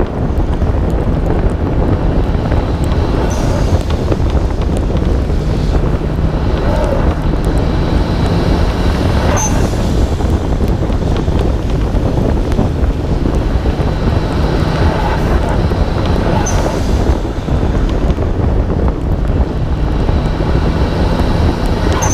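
Wind buffeting a hood-mounted camera on a Nissan Skyline R32 GT-R driving in the rain, with the car's RB26DETT twin-turbo straight-six running underneath, its note holding steady for a few seconds at a time, and wet tyre noise mixed in.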